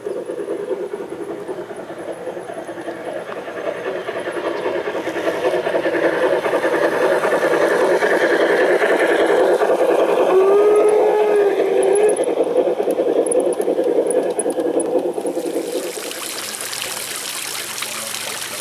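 G-scale model train running on garden track: the rumble of its wheels builds as it comes close, peaks, then falls away quickly. A short whistle sounds over the rumble about ten seconds in. Near the end a steady trickle of water takes over.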